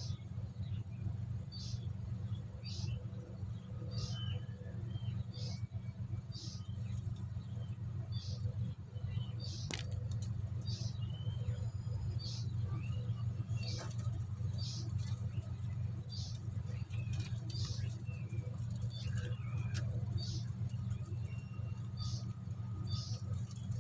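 A steady low hum with short, high-pitched squeaks repeating about once a second over it, and a single sharp click about ten seconds in.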